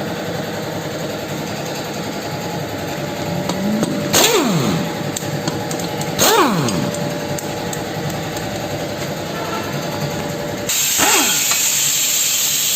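Air-powered wrench on the car's crossmember bolts: short bursts that start sharply and wind down in pitch, about four and six seconds in and again near eleven seconds. A loud hiss of air starts at about eleven seconds.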